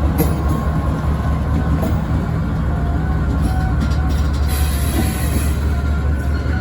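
KTMB Class 26 diesel-electric locomotive's engine running with a steady, loud low drone, with a few faint clicks over it.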